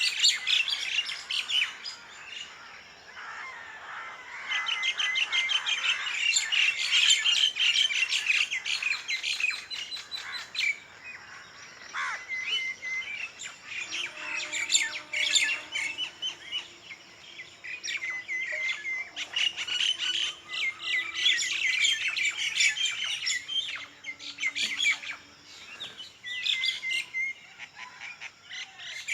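Many birds chirping and calling together, high-pitched and in dense bursts with short lulls between them.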